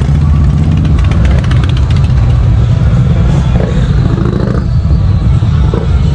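Motorcycle engines running on a busy street: a loud, steady, low-pitched sound throughout.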